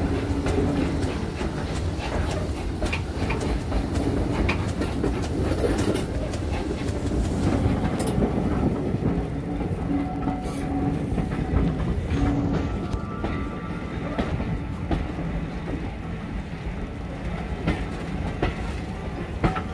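Railway carriage running along the track, heard from an open window: a steady rumble of the wheels with clickety-clack over the rail joints and frequent small knocks.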